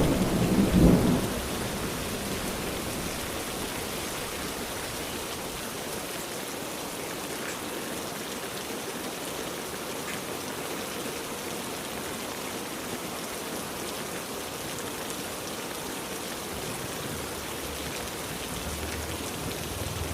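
Heavy rain falling steadily as an even hiss. A low thunder rumble dies away in the first second or so, and another low rumble builds near the end.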